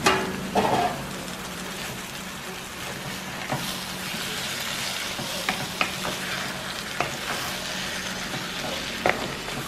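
Buffalo liver strips sizzling in a nonstick frying pan as a spatula stirs them through the pepper masala, with occasional sharp clicks of the spatula against the pan.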